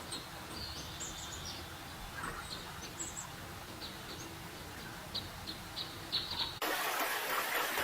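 Sparrowhawk chicks in the nest giving short, high-pitched begging chirps, repeated irregularly. About two-thirds of the way in, the chirps cut off and a steady hiss of rushing water takes over.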